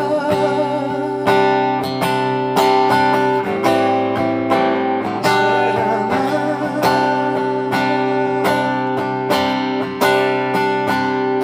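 Acoustic guitar strummed in a steady rhythm, sustained chords between sharp strokes: an instrumental break between sung verses of a live song.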